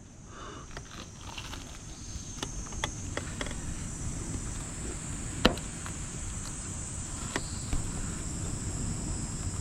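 Steady high chirring of insects, crickets or similar, with scattered sharp clicks, the loudest a little past halfway.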